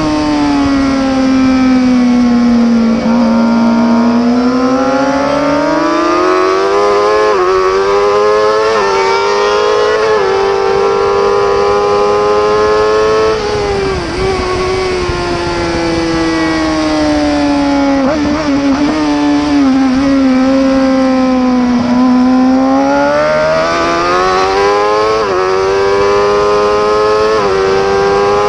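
Racing superbike engine at high revs, its pitch climbing and falling as it accelerates and slows, with short breaks and steps in the note at the gear changes.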